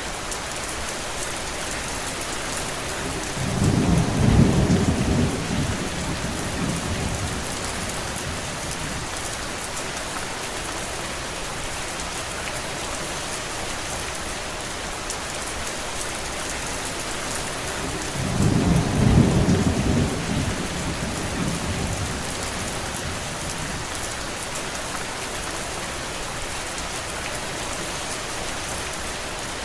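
Steady rain falling, with two low rumbles, one a few seconds in and another about twenty seconds in. Each swells and fades over two or three seconds.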